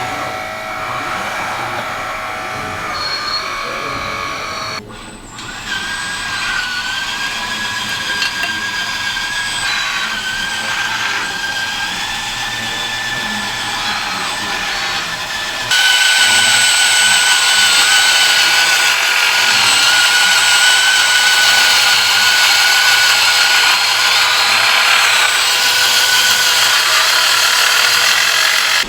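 Small electric motors and hydraulic pumps of RC model construction machines whining steadily at several pitches that waver slightly with load. The sound drops out briefly about five seconds in and comes back much louder about halfway through.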